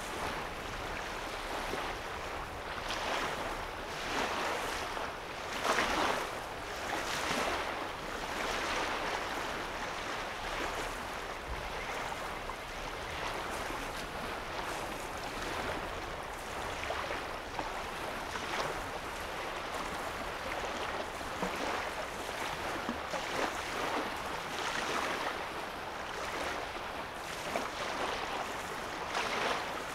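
Small waves lapping on a lake shore: a steady wash with soft, irregular splashes every second or two.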